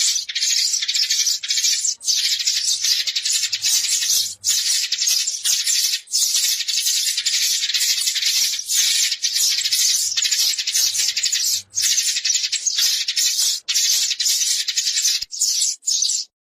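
Sparrows chirping in a dense, continuous flock chatter with only brief breaks, a recording used as a lure call to draw a flock of sparrows in.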